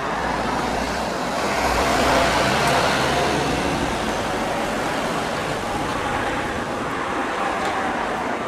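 Steady road traffic noise, swelling as a vehicle passes about two seconds in.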